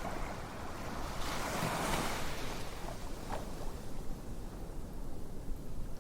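Ocean waves washing on a shore: a steady rush of surf that swells louder about a second in and then eases back, with a small click a little past the middle.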